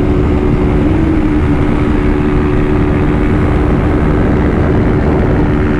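Small single-cylinder Honda motorcycle engines held at steady high revs near top speed, about 130 km/h, with heavy wind rushing over the microphone. The engine note stays level, with no revving up or down.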